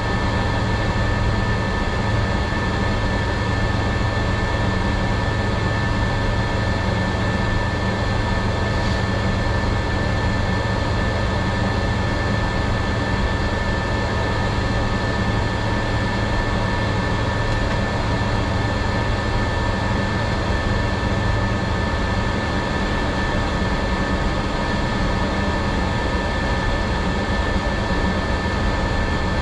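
Jet airliner on the ramp running, a steady drone with a constant high whine; a low hum in the drone drops away about three-quarters of the way through.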